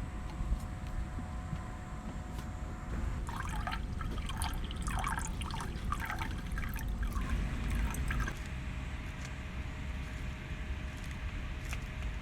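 Liquid being poured, trickling and gurgling for about five seconds from a few seconds in, over a low steady rumble.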